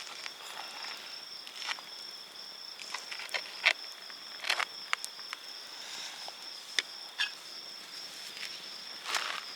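Insects chirring steadily in a high, thin tone, with scattered light clicks and taps over it.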